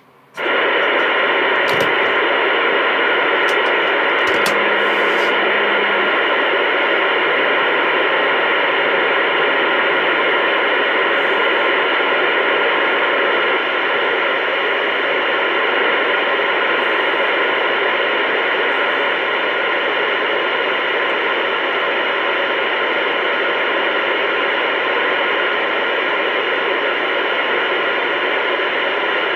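Loud, steady static hiss, like an open radio or phone channel, switching on abruptly right at the start, with a few faint clicks in the first few seconds.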